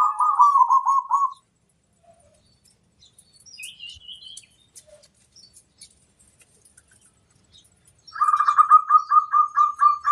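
Zebra dove (perkutut) cooing: a phrase of quick rolling coos dies away about a second in. After a pause, a second phrase of about a dozen rapid coos starts near the end. A faint, high chirp sounds in the pause.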